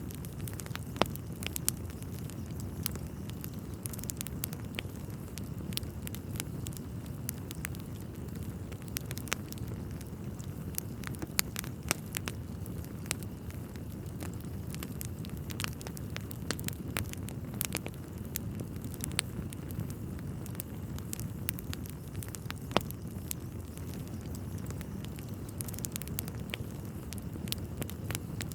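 Wood fire burning in a fireplace: a steady low rumble of the flames with irregular sharp crackles and pops from the burning logs, a few of them much louder.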